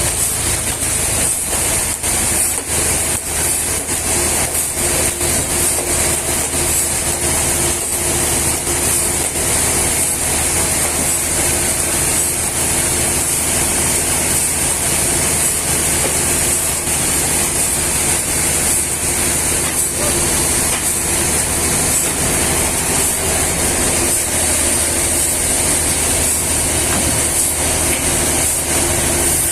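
Machinery running steadily: a constant loud hiss over a low, even hum, with no starts, stops or changes in pitch.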